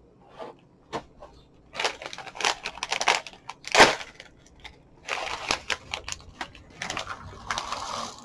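Crinkling, tearing and rustling of a cereal box and its plastic bag liner being opened and handled, in irregular bursts with sharp clicks from about two seconds in, loudest near the middle.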